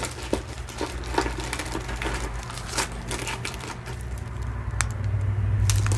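Small metal jewelry findings and costume jewelry pieces clicking and clinking as they are handled and dropped into a box, in light irregular taps.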